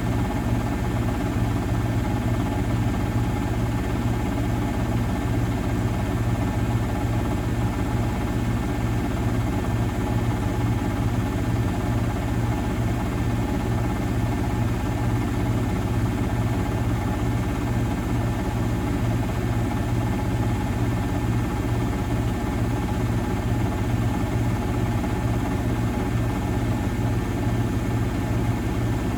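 Miele Novotronic W921 front-loading washing machine spinning steadily, its motor and drum holding a constant speed with an even, loud hum.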